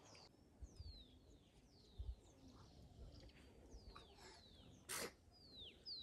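Faint bird calls over near silence: short chirps that slide down in pitch, coming roughly twice a second, with a soft knock about five seconds in.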